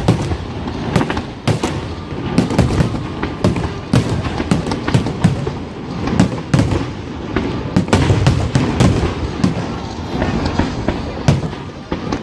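A fireworks display in full swing: many shell bursts and crackles in quick succession, several booms a second over a continuous rumble, with no let-up.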